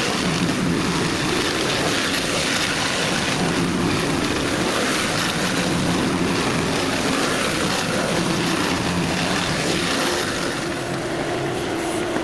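A motor engine running steadily, its pitch wandering a little as it works.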